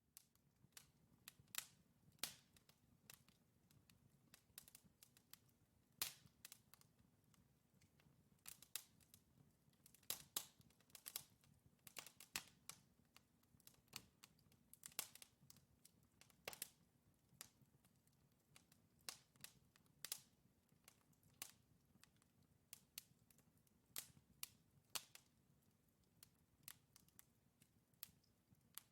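Wood logs burning in a fireplace, crackling with irregular sharp pops and snaps, several a second, over a faint low background hum.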